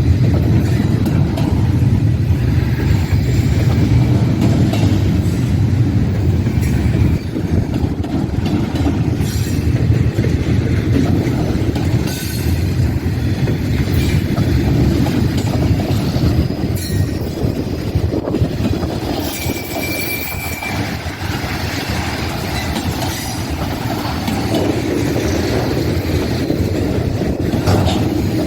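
Freight train rolling steadily past: a continuous rumble of cars on the rails, with scattered clanks and a brief high wheel squeal about twenty seconds in.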